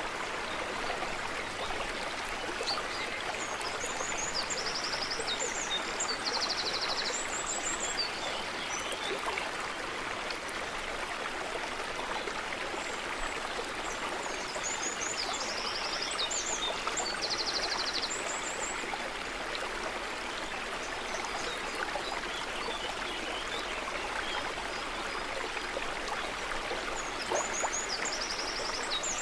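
A stream of running water rushing and trickling steadily. A songbird sings a high phrase of quick chirps and trills three times, about ten seconds apart.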